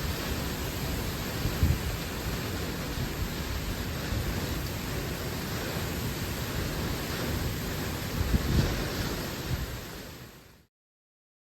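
Thunderstorm wind and rain rushing over the microphone in a steady noise, with a few low buffets or rumbles about two and eight seconds in. It fades away and cuts off near the end.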